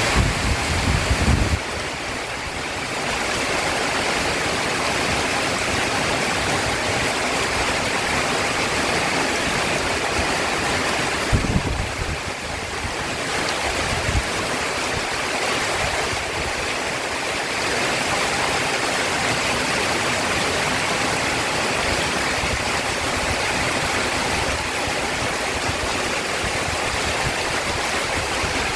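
Heavy rain pouring steadily, with brief low rumbles of thunder near the start and again about twelve seconds in.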